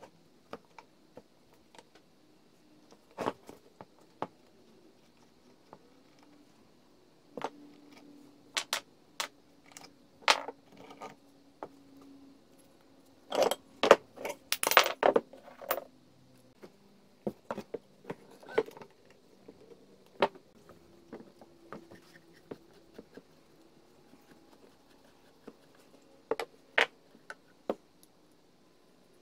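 Small metal parts clinking and clattering as they are handled, in scattered separate knocks with a quick run of clinks around the middle.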